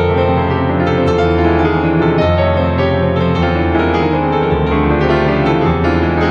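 Calm piano music with held chords over a bass that steps to a new note every second or so.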